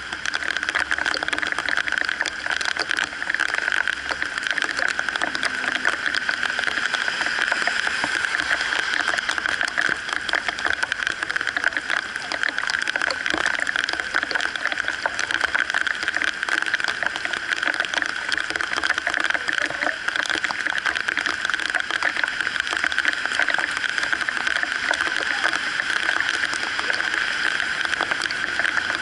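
Heavy rain falling on a wet street: a steady, dense hiss of drops, with vehicles driving over the wet road.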